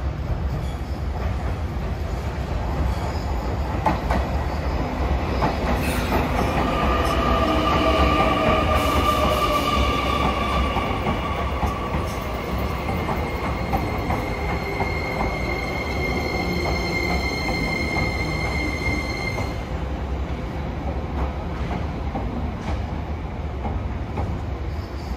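A JR Kyushu 885 series electric limited express rolls past at low speed as it comes into the terminus, braking. Over the rumble of its wheels, high whining and squealing tones slowly fall in pitch as it slows, then stop about twenty seconds in.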